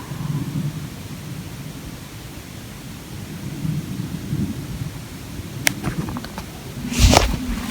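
Night-time outdoor field recording: an unsteady low rumbling noise, with a few sharp clicks starting a little after five seconds in and a louder crackling knock near the end. No animal call or voice stands out.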